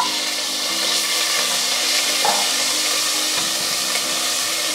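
Ginger-garlic paste sizzling in hot peanut oil, a steady loud frying hiss, with a wooden spatula stirring it through the pan.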